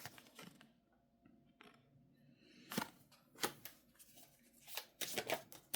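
Tarot cards being handled: a few soft sharp clicks and taps as cards are drawn from the deck and laid down, most of them in the last second or so.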